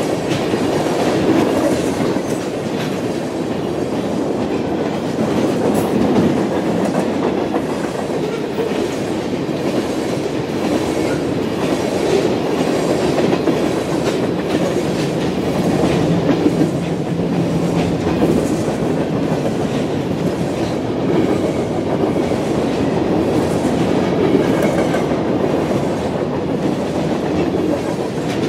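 A train rolling past, its wheels clicking steadily over the rail joints.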